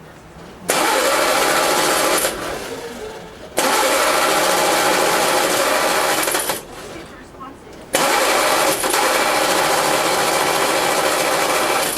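1936 Hillman Minx's four-cylinder side-valve engine being cranked on the starter in three long bursts of about three to four seconds each, starting and stopping abruptly, as it is tried for the first time after standing for about a year.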